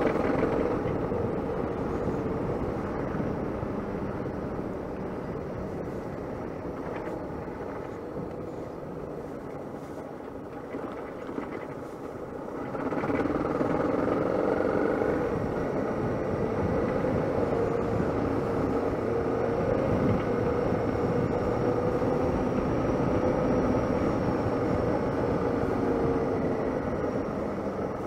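Suzuki DR650 single-cylinder engine running under way on a gravel road, with wind noise over the microphone. The engine sound drops for several seconds in the middle, then comes back louder about halfway through and holds steady.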